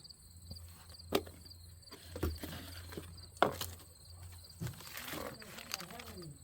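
Crickets chirping in a steady, regular rhythm, broken by about five short sharp clicks and knocks from parts or tools being handled. The loudest knocks come about a second in and just past the middle.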